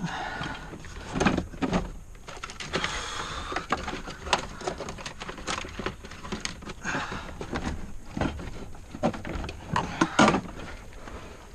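Plastic interior trim being worked loose by hand: irregular clicks, knocks and rustling as the panel and its clips come free.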